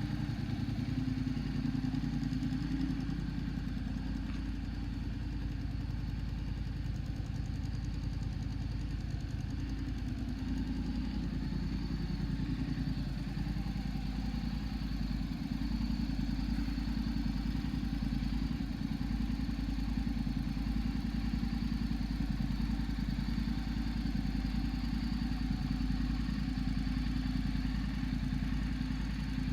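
Honda NC750S DCT's parallel-twin engine idling steadily.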